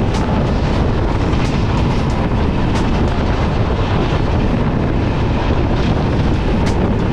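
Two passenger trains passing each other at speed on adjacent tracks: a loud, steady rush of wind and rumbling wheels heard at an open coach door, with sharp wheel clicks now and then.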